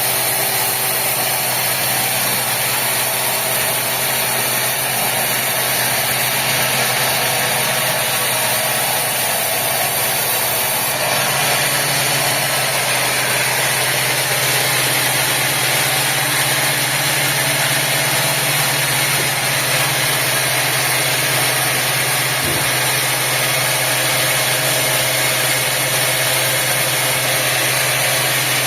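Sawmill machinery running steadily: a constant engine-like drone with a low hum and a broad hiss, which shifts slightly about eleven seconds in.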